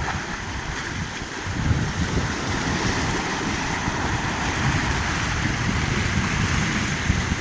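Heavy Black Sea surf: waves breaking and rushing ashore, with wind rumbling on the microphone. The roar swells a little louder about a second and a half in.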